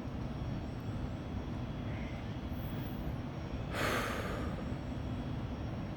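A steady low rumble, with one short breath, a sigh or sniff close to the microphone, about four seconds in.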